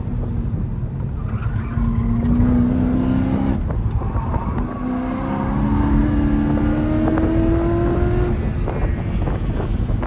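Mercedes C63 AMG's 6.2-litre V8, exhaust with the secondary cats and resonators deleted, pulling hard under load: its pitch climbs, drops off sharply about three and a half seconds in, climbs again, and near the end lets off into a rougher, crackling rumble.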